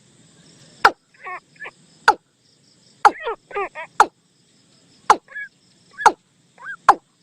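Recorded bird call played as a hunter's decoy lure: a sharp, falling call repeats about once a second, with quicker chirping, warbled notes between.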